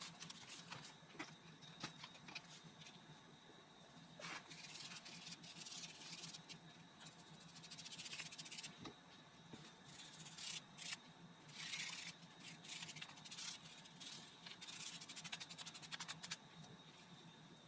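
Faint rustling and light clicks of paper and craft supplies being handled, at an irregular pace, over a low steady hum.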